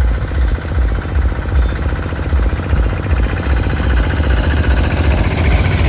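Small engine running steadily, with a rapid even chugging pulse and a heavy low rumble.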